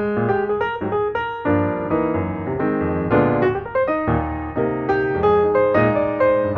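Background piano music: a steady run of notes over a bass line.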